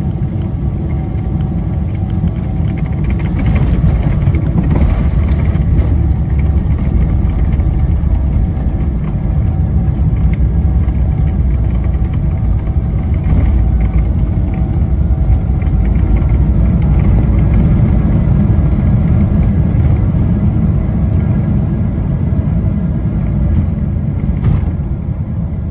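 Loud cabin rumble of a Boeing 777-300ER with GE90-115B engines on the landing roll. It grows louder about four seconds in and eases off near the end, with a short click shortly before the end.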